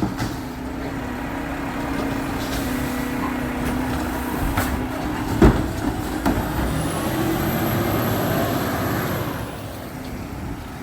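Garbage truck running with a steady engine hum, with two sharp clanks about halfway through and a faint high whine rising and then fading in the latter half.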